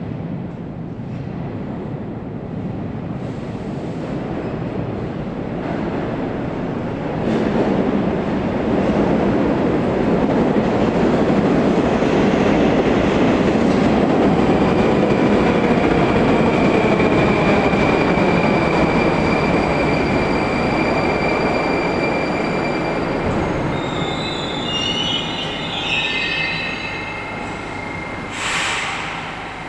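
A Rusich 81-740/741 metro train running on the track, its rumble growing louder for the first half and then easing, with a faint whine gliding in pitch. High wheel squeals come in near the end, followed by a short hiss.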